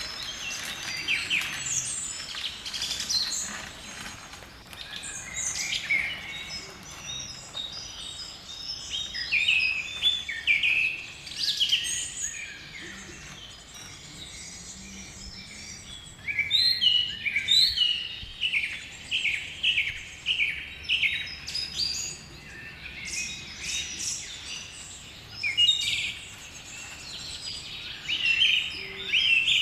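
Birds singing and chirping outdoors, several calls overlapping, with runs of quick repeated notes.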